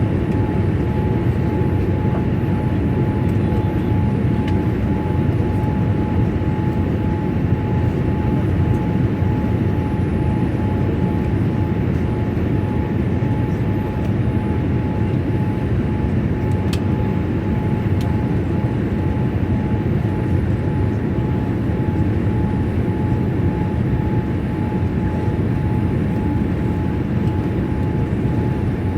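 Steady cabin noise inside a Boeing 787-8 Dreamliner on approach: an even rush of airflow and engine hum with a thin, steady whine on top.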